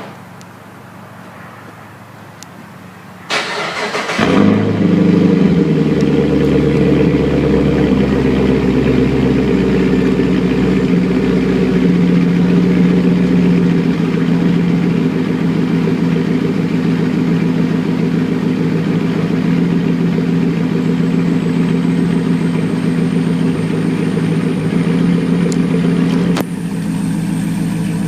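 Pontiac G8's L76 6.0-litre V8 started through a Solo Performance Mach Shorty cat-back exhaust: a brief crank about three seconds in, then the engine catches with a flare and settles into a loud, steady idle. Near the end the idle steps down and gets a little quieter.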